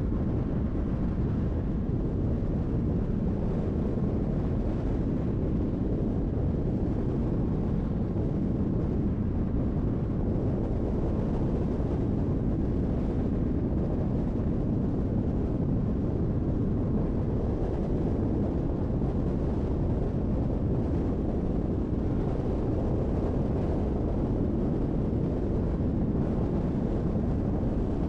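Steady road noise of a car driving on the highway: a low, even rumble of tyres and engine with some wind, unchanging throughout.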